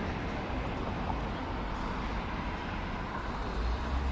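Steady low rumble and rushing noise of a moving vehicle, with the rumble growing stronger near the end.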